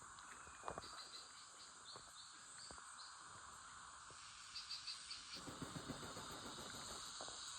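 Faint forest ambience: a steady insect drone, with a bird giving quick runs of short high notes, once in the first seconds and again around the middle. Rustling noise comes in over the second half.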